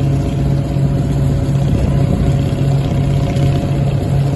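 Fishing boat's diesel engine running at idle, a steady low throb that pulses evenly.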